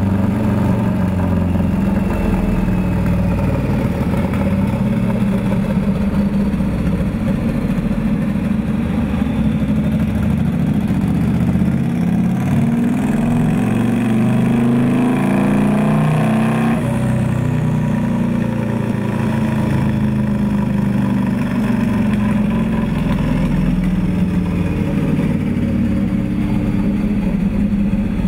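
Turbocharged 2006 Harley-Davidson Screamin' Eagle V-Rod V-twin running on a rolling-road dyno. A little before the middle it climbs in pitch for about five seconds with a thin high whine rising above it, then drops off suddenly and settles back to a steady run.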